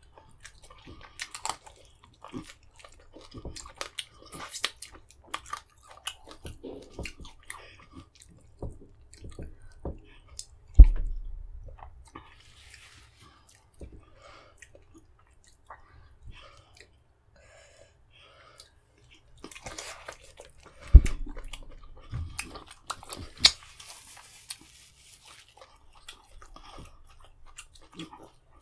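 Close-miked chewing, biting and wet mouth sounds of a man eating fufu and vegetable soup with meat by hand. Two sharp thumps, about 11 and 21 seconds in, are the loudest sounds.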